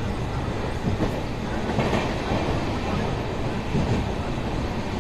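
Moving passenger train heard from inside a coach by an open window: a steady rumble of wheels running on the rails.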